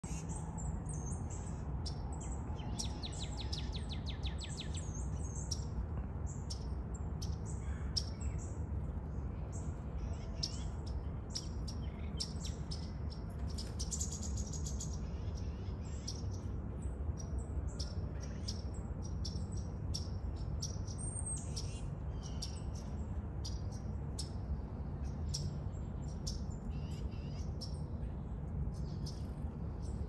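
Songbirds chirping and calling, many short high chirps with a rapid trill a few seconds in and another about halfway through, over a steady low hum.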